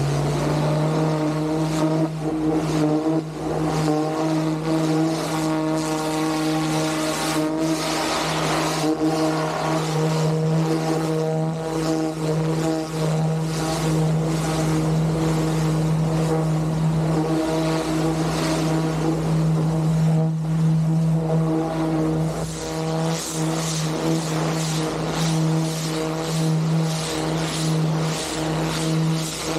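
Van-mounted pressure washer running with its engine holding a steady hum, under a rough, uneven hiss of water spraying.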